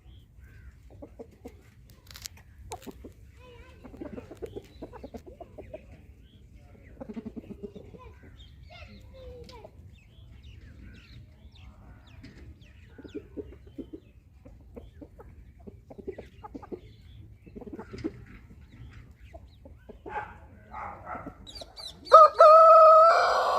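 Chickens clucking with scattered short calls, then a rooster crows loudly near the end. A steady low hum runs underneath.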